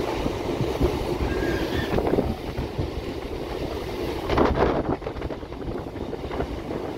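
Suburban electric local train running along the track, heard from inside the coach at an open door: steady rumble and knocking of the wheels on the rails, with wind on the microphone. A burst of louder clatter comes about four and a half seconds in.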